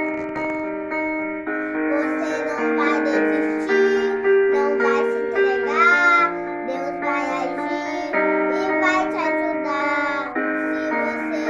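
A slow song: a child's voice singing a melody, holding some notes with vibrato, over sustained keyboard chords.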